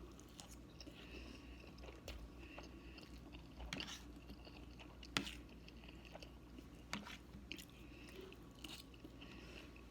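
A person chewing food close to the microphone, faint, with a few short sharp mouth clicks scattered through it.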